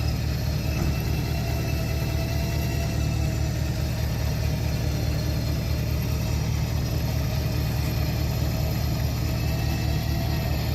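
A vehicle engine running steadily at idle, with a deep, even rumble and a faint whine above it.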